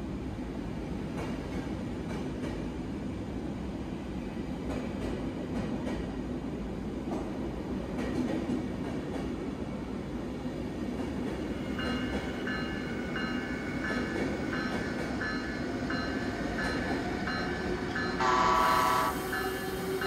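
Train running by, a steady low rumble and rail noise. From about halfway through, a high tone repeats about twice a second, and near the end a loud horn blast lasts about a second and a half.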